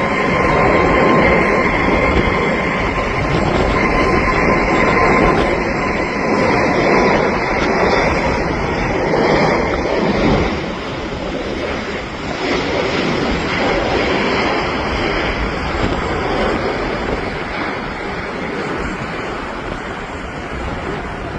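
Jet airliner engines making a loud, steady rush of noise. A thin whine sits over it for the first half, and the noise slowly fades over the second half as the aircraft moves away.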